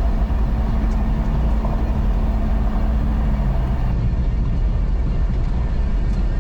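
Steady drone of a four-wheel drive vehicle heard from inside the cabin while driving: engine hum and tyre and road rumble at an even pace.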